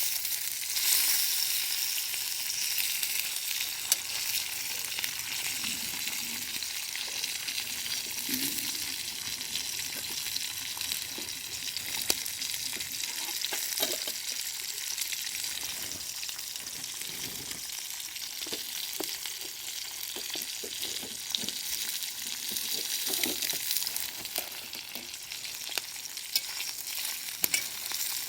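Food sizzling steadily in a pan over a campfire, with scattered crackles and pops and occasional stirring strokes.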